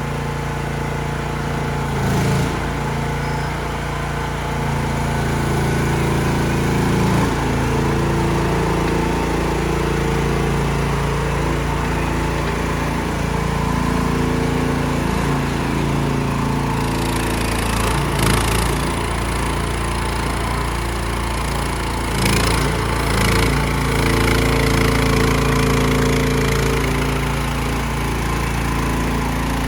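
Mini skid steer loader's engine running steadily, its note shifting now and then as the machine works, with a few knocks of metal about two seconds in and again past the middle.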